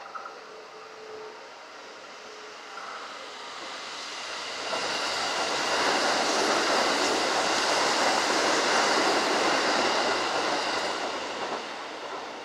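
Kintetsu electric train passing, its rumble and rail noise swelling from about four seconds in, holding loud for a few seconds, then fading away near the end.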